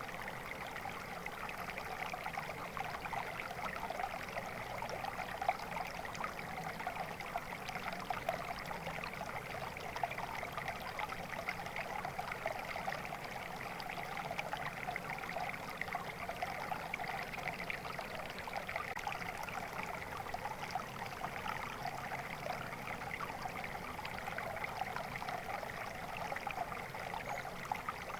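Water flowing steadily in a stream, a continuous babbling and trickling rush.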